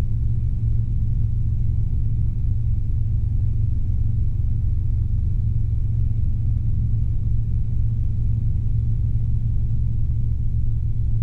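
Robinson R22 helicopter in flight: the steady low drone of its engine and rotor, even in level throughout.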